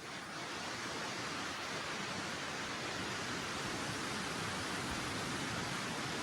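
Heavy rain falling steadily in the forest, an even rushing hiss that swells at the start and then holds level.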